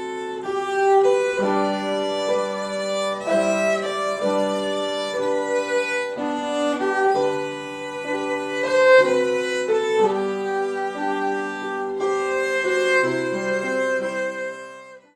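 Instrumental music led by a violin, a melody of held notes over lower accompanying notes, cutting off abruptly at the end.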